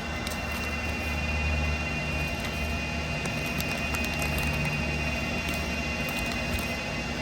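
Steady low machine hum with a faint high tone, and scattered light ticks and rustles of filter media granules being poured from a bag into a filter housing.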